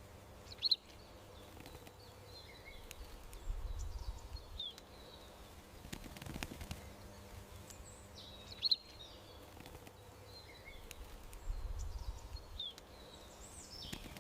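Small birds chirping in short, scattered calls over a faint steady background hum, with a low rumble twice.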